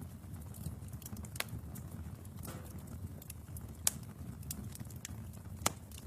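Wood fire burning in a fireplace: a steady low rumble of flames with scattered sharp crackles and pops, the loudest about four seconds in and again near the end.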